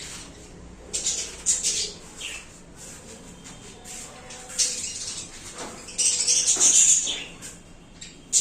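Budgerigars chirping and chattering in irregular bursts, loudest about six to seven seconds in.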